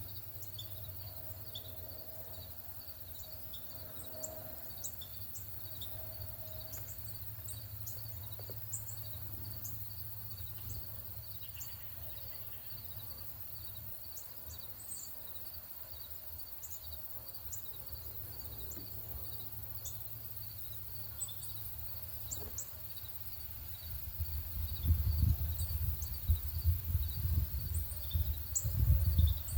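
Outdoor nature sound: an insect trilling steadily in even pulses, with short, high bird chirps scattered throughout. A low rumble underneath grows much louder near the end.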